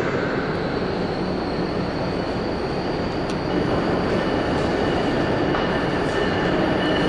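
Amtrak Acela Express electric high-speed train pulling into a station: a steady rumble of wheels on rail with a thin high-pitched tone over it, and a second tone joining about halfway through.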